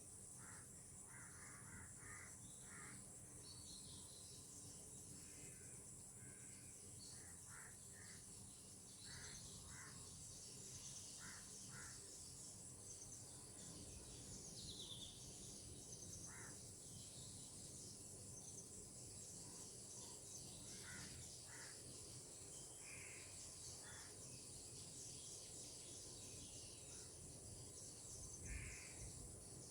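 Faint birds giving short calls, a few at a time and scattered throughout, over a steady high insect chirring.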